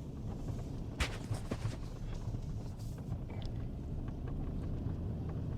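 A vehicle's engine running with a steady low rumble, and a sharp click about a second in.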